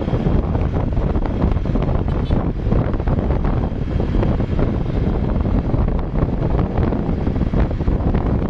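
Wind buffeting the microphone in a steady low rumble, with vehicle engine and road noise underneath, as heard while travelling on an open vehicle.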